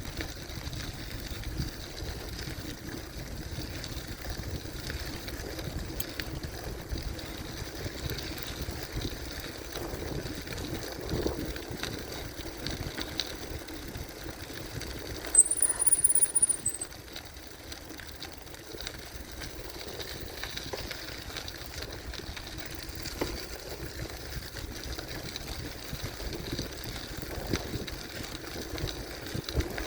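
Gravel bicycle riding along a forest trail: steady tyre rumble and wind on the microphone, with small rattles and ticks. About halfway through, a high-pitched steady squeal lasts a little over a second.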